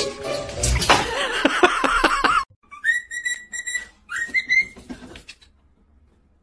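A loud, noisy stretch for the first two and a half seconds, then a pet bird whistling: two short, high whistled phrases, each starting with an upward swoop and holding a steady note.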